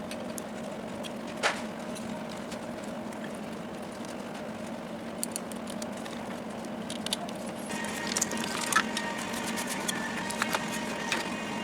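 A steady low electrical hum with scattered small clicks and taps of handling on the workbench, one sharper click about a second and a half in. About two-thirds through, a brighter hiss with a faint steady high tone joins and the clicks come more often.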